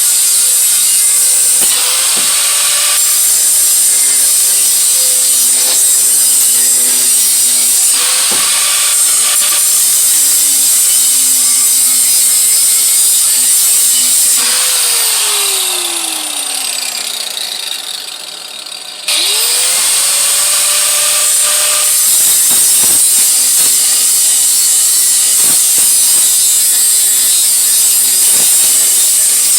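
Electric grinder running with a loud, steady high hiss. About halfway through it is switched off and its motor whine winds down, then it starts again with a rising whine and runs on.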